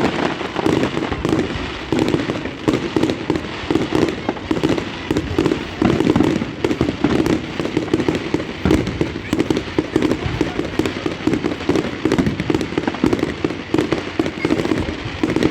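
Fireworks going off in a continuous rapid barrage of bangs and crackles.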